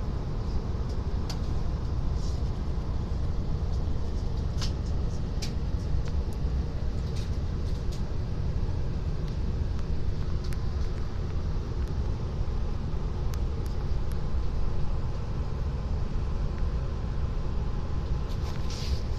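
Steady low rumble of strong wind around a train stopped by the wind, heard from inside the carriage, with a faint steady hum and scattered light clicks.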